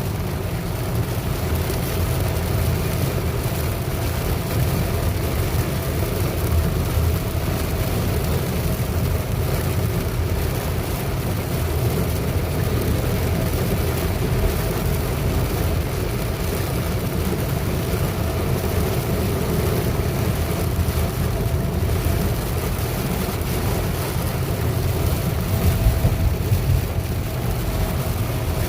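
Car cabin noise while driving: a steady low road and engine rumble with a faint constant hum, most likely the heater blower running on the defogger.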